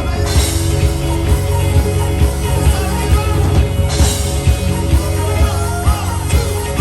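Live band playing amplified funk-rock with a steady beat.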